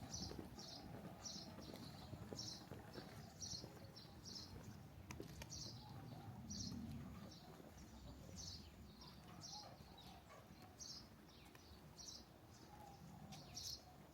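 Walking footsteps on a wet lane, an even pace of about two steps a second, each step a soft scuffing tick, over a faint steady rain hiss.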